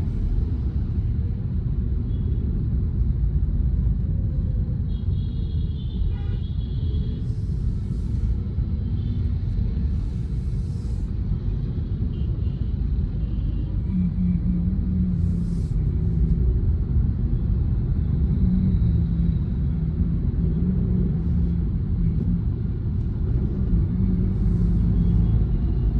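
Car engine and road noise heard from inside the cabin while driving in city traffic: a steady low rumble throughout.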